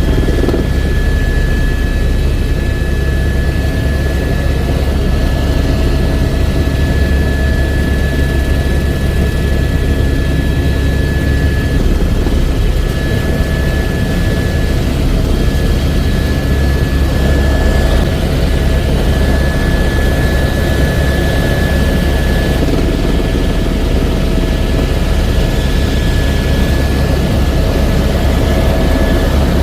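Helicopter running steadily in flight: a continuous deep rotor and engine drone with a steady high whine over it.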